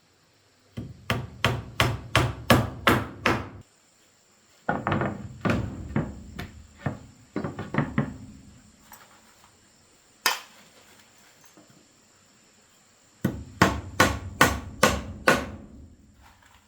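Hammer blows in three quick runs of several strikes each, about three a second, with a single blow between the second and third runs.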